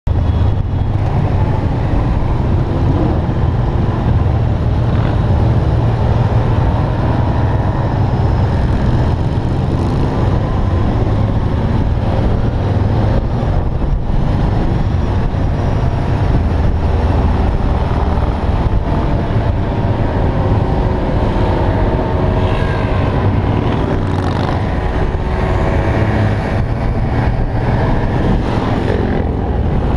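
A procession of many motorcycles riding past, their engines running together in one continuous, loud mix.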